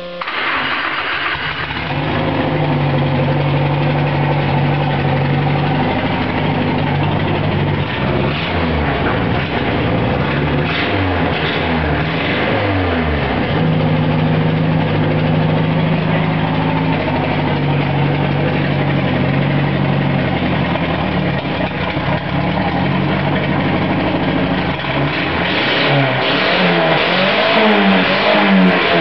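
Nissan SR20 black-top inline-four catching on its first start and settling into a fast idle of about 1,500 rpm, its first run on an aftermarket ECU. It is revved up and down twice, about eight seconds in and again near the end.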